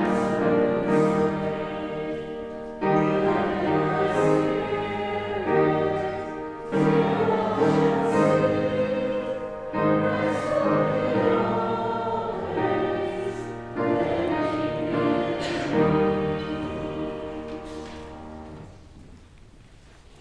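A congregation singing a hymn with instrumental accompaniment, in sustained chords; the last chord fades out near the end.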